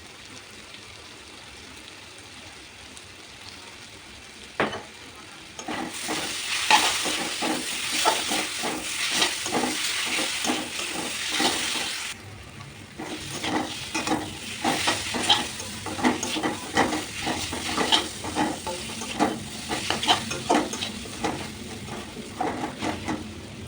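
Spoon or spatula stirring and scraping in a pan of frying food, with a sizzle underneath. A single knock comes about four seconds in, the busy stirring starts a little later, pauses briefly about halfway, then carries on.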